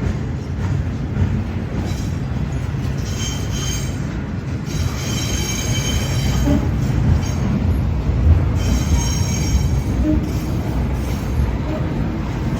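Train moving through a station with a steady low rumble, and high-pitched wheel squeal that comes and goes in three spells.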